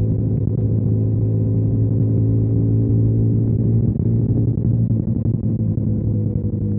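2021 KTM Duke 125's single-cylinder engine, breathing through a Storm GP aftermarket exhaust, running at a steady speed while riding, easing off slightly near the end.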